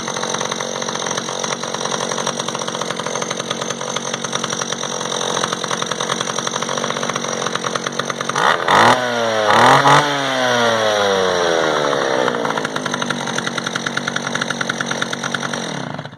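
Echo CS-330 EVL chainsaw's small two-stroke engine idling steadily, revved up twice in quick succession a little past halfway and falling back to idle each time. The sound stops abruptly at the end.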